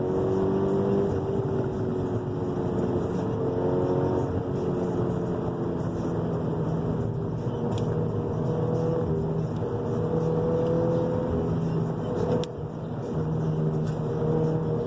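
Drift car's engine running hard on a twisty road, its pitch slowly climbing and falling as the revs change, with a short drop in level about twelve seconds in.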